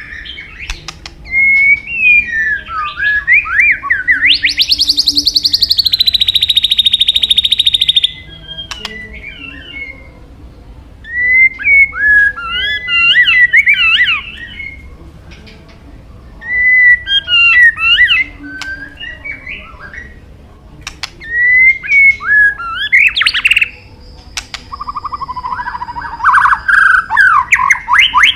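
White-rumped shama singing in loud bouts of fast, varied whistled phrases, with short pauses between bouts. About five seconds in it holds a long buzzing rattle, and near the end it breaks into a rattling trill.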